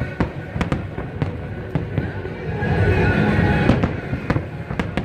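Fireworks going off: a string of sharp bangs and cracks at uneven intervals over a steady background din.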